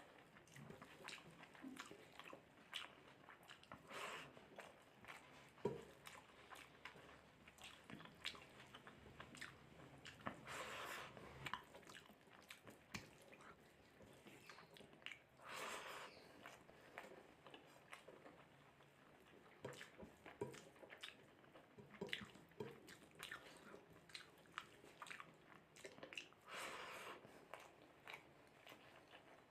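A person eating mutton curry with rice, chewing and biting with many small clicking mouth sounds. There are a few longer noises about eleven, sixteen and twenty-seven seconds in.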